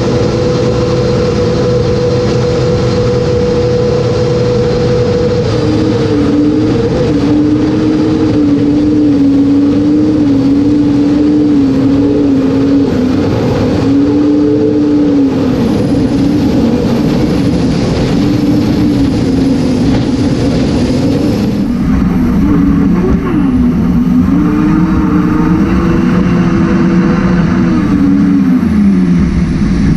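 Racing jet boat's engine running hard and loud, its pitch wavering up and down as the throttle is worked, with a drop in pitch near the end, over the rushing noise of the run.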